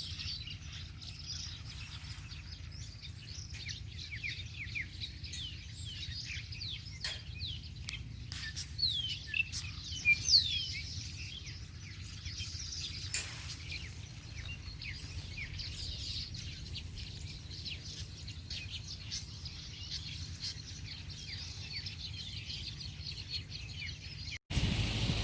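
Several birds chirping and calling without a break, mixed with wind rumbling on the microphone. A few louder rising whistle calls come about nine to ten seconds in, and the sound cuts off briefly just before the end.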